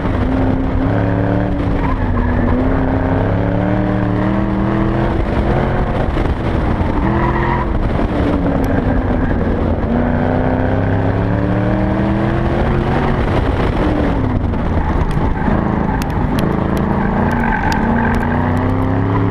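2009 Mustang GT's 4.6-litre V8 revving up and down again and again as it is driven hard through an autocross course, pulling hard and then backing off for the turns. Tyres squeal briefly twice, a few seconds in and near the end. Sharp clicks scatter through the last few seconds.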